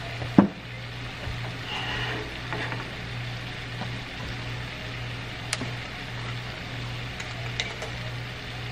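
Garlic sizzling in melted butter in a saucepan, a steady frying crackle over a low hum, with one sharp knock about half a second in and a fainter click a few seconds later.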